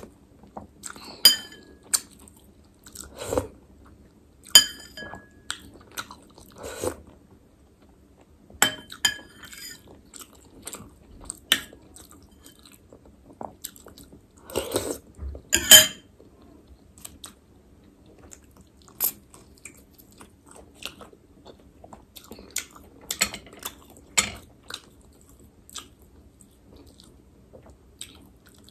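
Close-miked chewing and biting of chicken momos, with irregular wet mouth sounds and crunches. A few short ringing clinks stand out among them.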